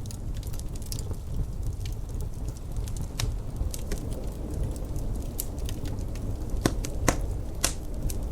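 Wood fire crackling in a fireplace: irregular sharp pops and snaps, a few louder ones close together near the end, over a low steady rumble.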